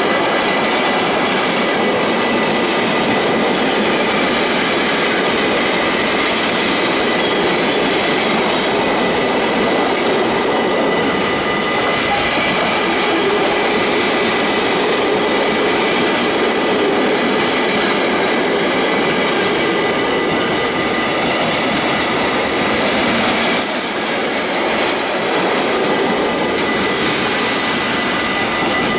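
Freight train's container flat wagons rolling past, a steady rumble and clatter of steel wheels on rail with a thin, steady high squeal from the wheels.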